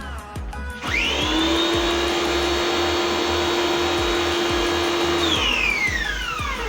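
Tecna electric pressure washer's motor starting up, spinning up quickly to a steady whine and running for about four seconds while spraying, then winding down with a falling pitch when the trigger is released.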